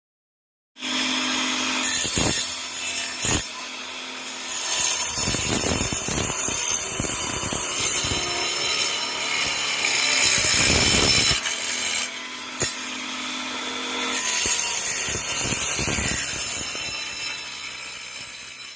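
Homemade 12 V mini breaker driven by a 775 DC motor, starting up about a second in and running with a harsh mechanical noise over a steady hum, with two sharp knocks in the first few seconds; it dies away at the very end.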